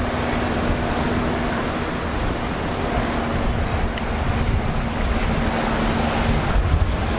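Waves and surf with wind buffeting the microphone, and a boat engine humming steadily underneath.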